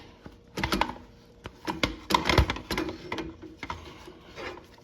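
Irregular metallic clicks, knocks and scraping from hand work on the rear brake assembly of an ATV. The knocks are loudest about two to two and a half seconds in.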